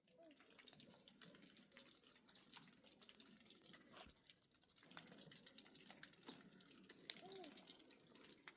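Faint dripping water, most likely rainwater: a steady scatter of small drops ticking over a soft wash. A few brief, faint, arched calls come through, one near the start and another about seven seconds in.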